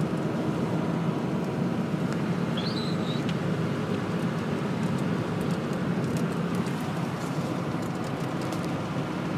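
Steady engine and tyre noise from inside the cab of a four-wheel-drive vehicle driving along a plowed, salted road, a constant low rumble.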